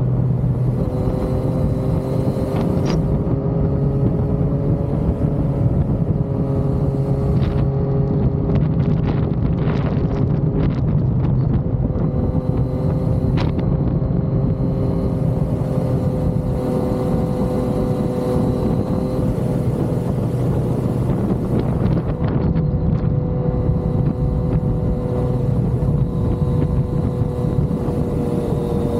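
Yamaha XSR900's inline three-cylinder engine running at a fairly steady cruise, its pitch drifting only slightly, with wind noise on the microphone.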